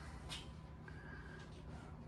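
Quiet room tone with one faint, short hiss about a third of a second in.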